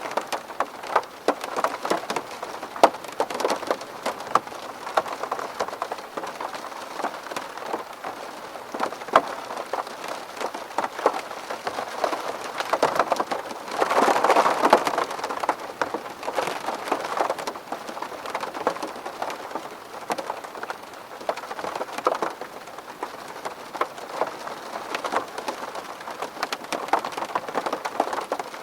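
Steady rain pattering on a window pane, with many distinct drop taps and a brief heavier surge about halfway through.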